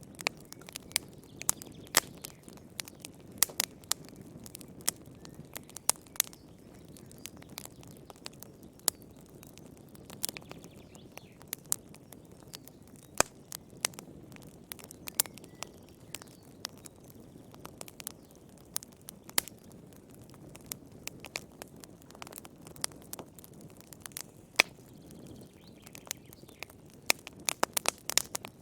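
Wood fire in a fireplace crackling, with irregular sharp pops, some loud, over a steady low rush.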